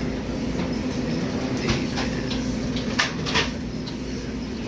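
Steady hum and road noise of a vehicle on the move, with a few short sharp knocks, the loudest about three seconds in.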